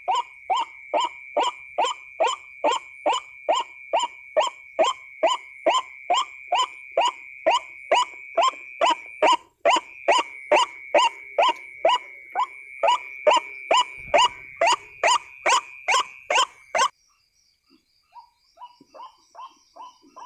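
White-breasted waterhen calling loudly and monotonously, about two calls a second, over a steady high-pitched drone. The calls and the drone stop abruptly near the end, briefly interrupted once midway, and fainter calls continue afterwards.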